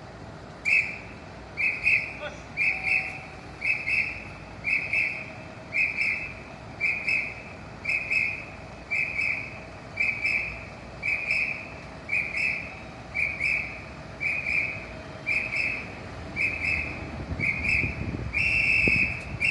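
A signal whistle blown in short, evenly spaced blasts, about one a second, ending with one longer blast. A low rumble rises under the last few blasts.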